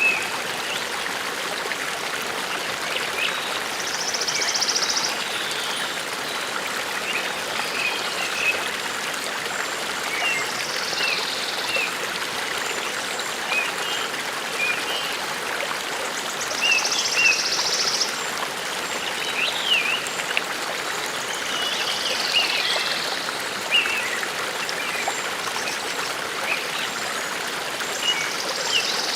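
Forest brook running steadily, with small birds chirping over the water and a high trilling song repeated about every six seconds.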